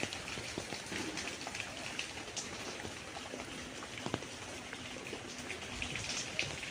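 Steady summer rain falling, with many small individual drops striking close by over an even hiss.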